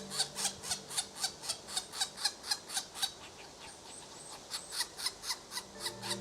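Red-bellied woodpecker pecking at wood: a steady run of sharp taps, about four to five a second, that pauses for over a second midway and then resumes.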